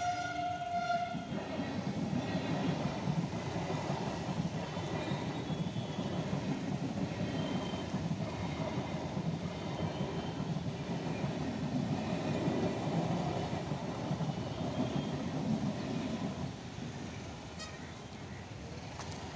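Electric suburban train passing over a level crossing: a steady rumble of the train on the rails, which drops off about three-quarters of the way through. At the very start the crossing's warning beep is still sounding as a steady tone and stops after about a second.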